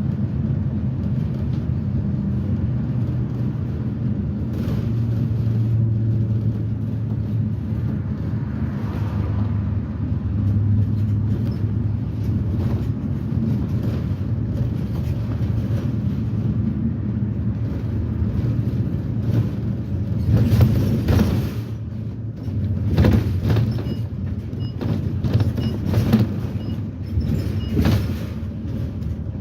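A 2010 Blue Bird Vision school bus under way, heard from inside: its propane GM Vortec V8 runs with a steady low hum and road noise. From about twenty seconds in, a string of knocks and rattles breaks in, the loudest one first.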